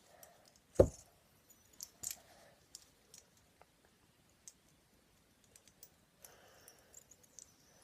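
Fidget spinner being handled during balancing and passing tricks: scattered small clicks and taps, with one sharp knock about a second in and a couple of smaller knocks soon after.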